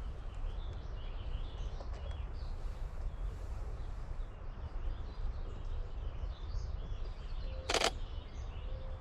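Small songbirds chirping and calling here and there over a steady low rumble. A brief, sharp, loud noise cuts in once about eight seconds in.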